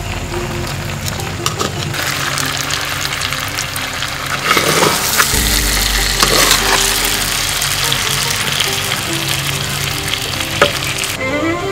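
Stingray fish pieces and vegetables sizzling in hot oil in a clay pot, the hiss growing louder about two seconds in, with a wooden spoon stirring and knocking against the pot a few times.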